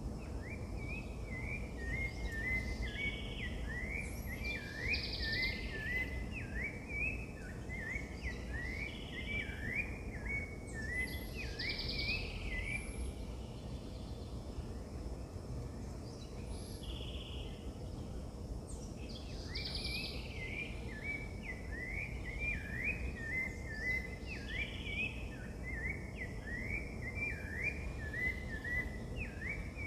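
Birdsong: a long rapid series of short rising chirps, stopping about halfway through and starting again for the rest, with scattered higher calls over it. Under it runs a steady low rumble of outdoor background noise.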